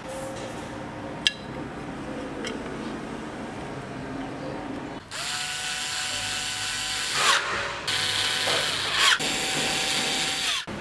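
A few light clicks and handling noises. Then, about five seconds in, a small electric power-tool motor starts with a rising whine and runs at a steady pitch in about three short runs, cutting off just before the end.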